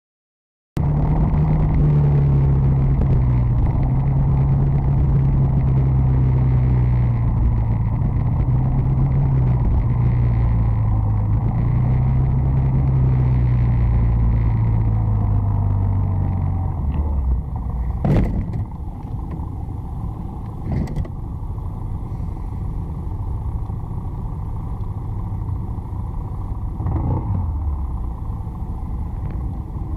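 A car engine running under road noise, its note shifting up and down, then dropping quieter about seventeen seconds in. A few short, sharp knocks follow, near 18, 21 and 27 seconds.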